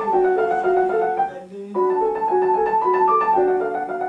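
Piano playing a short phrase of repeating, alternating notes, breaking off about a second and a half in and then playing the same phrase again: a fine difference in articulation being compared.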